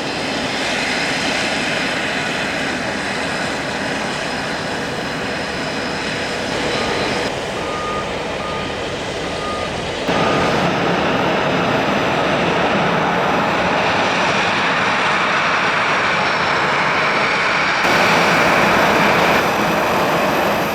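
Business jet engines running at an airport, a loud steady roar that jumps abruptly in loudness about halfway through and again near the end. A vehicle's reversing beeper sounds about five times in a row about a third of the way in.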